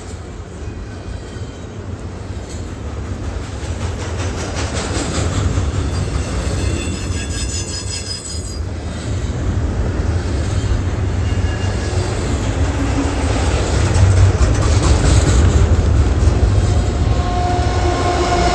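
Double-stack freight train rolling past, a steady low rumble of wheels on rail that grows louder. High-pitched wheel squeal rises over it about seven seconds in and again near the end.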